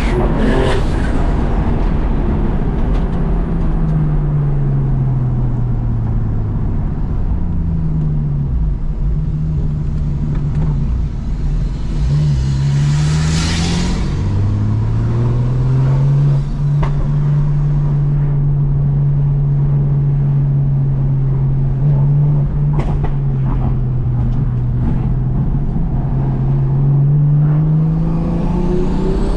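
Single-turbo BMW M2 Competition's straight-six running through a straight-through titanium exhaust, heard from inside the car. The revs drop away in the first few seconds, rise and fall again, then hold steady for over ten seconds before climbing near the end. A brief hiss comes about halfway through.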